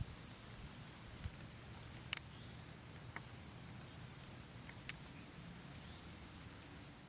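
A steady, unbroken high-pitched trilling of crickets, with a couple of brief sharp clicks about two and five seconds in.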